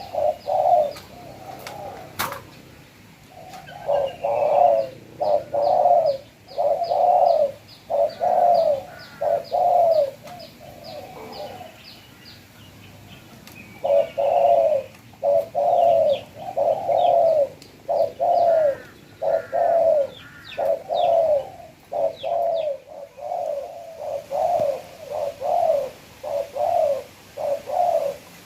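Spotted dove cooing: runs of low, evenly repeated coo notes, with a pause of a few seconds partway through before the cooing starts again.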